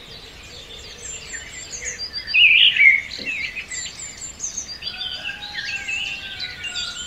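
Several small birds chirping and singing outdoors in a wood: many short, quick, high notes overlapping, loudest between two and three seconds in.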